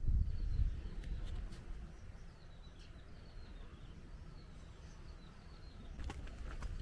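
Faint high bird chirps, several short calls falling in pitch, over a low rumbling outdoor background. A run of sharp clicks starts near the end.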